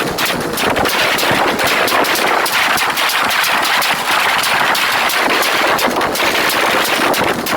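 Motorcycle engine held against its rev limiter, the exhaust crackling in a rapid, unbroken run of loud pops.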